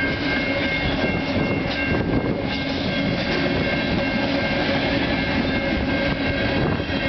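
Freight train cars, autoracks and covered hoppers, rolling past: a steady rumble of steel wheels on rail, with steady high-pitched tones over it.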